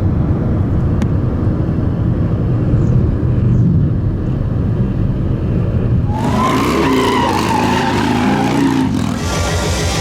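Motorcycle engines running with a deep, steady rumble. About six seconds in, the sound changes abruptly to a louder, higher rushing noise with a wavering squeal, like tires skidding.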